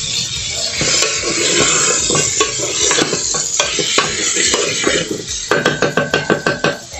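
A spoon stirring vegetables frying in lard in a pot, with a sizzle and scattered knocks of the spoon against the pot. Near the end the spoon scrapes and knocks quickly against the pot several times a second.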